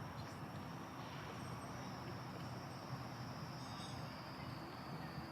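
Faint background noise: a low rumble and hiss with a steady thin high-pitched whine that drifts slightly lower.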